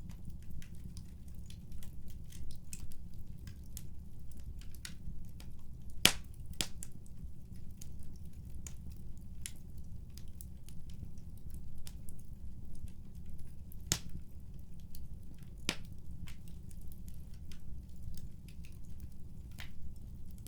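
Wood fire crackling, with scattered small snaps over a low steady rumble and a few louder sharp pops.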